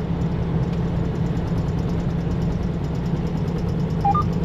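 Semi truck's engine and road noise droning steadily inside the cab at highway speed. About four seconds in, a short two-note electronic beep, the second note higher.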